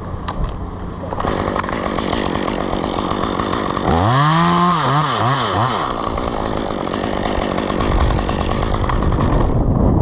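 Chainsaw running, starting about a second in. Its engine pitch climbs and falls several times around the middle, and it stops near the end.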